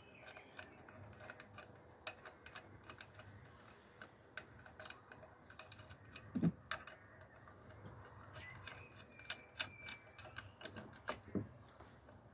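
Faint, irregular light clicks and clinks of hand tools and metal parts being handled while the fuel pump's timing is being set, with two somewhat louder knocks, about six and eleven seconds in.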